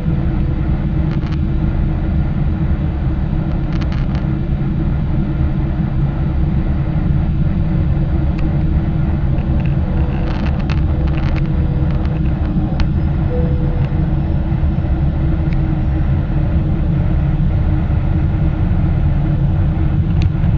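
Steady cabin noise of a Boeing 777-300ER after take-off: a loud, even low rumble from its GE90 engines and airflow, with a steady low hum running through it.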